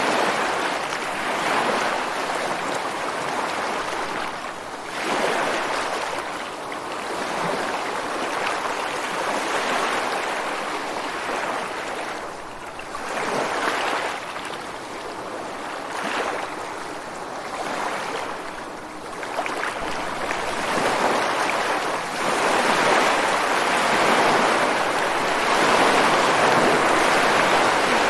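Ocean surf: waves breaking and washing ashore one after another, a continuous rushing that swells and ebbs every few seconds and grows fuller and louder over the last third.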